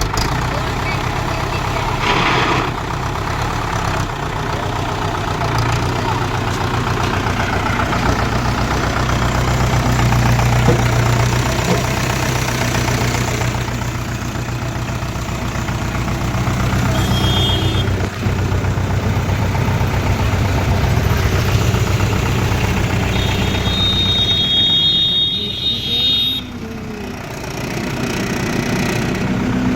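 Mahindra 575 DI tractor's four-cylinder diesel engine idling steadily, with a brief drop in level a few seconds before the end.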